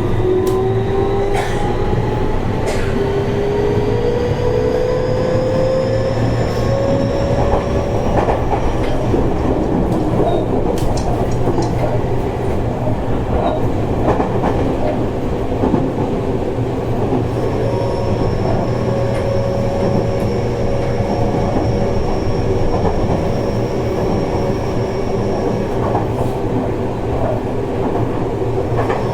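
Seibu 30000 series electric train heard from inside the car. The traction motors whine, rising in pitch over the first several seconds as the train speeds up, then hold a steady whine at speed, over steady wheel-and-rail rumble with a few sharp clicks from the track.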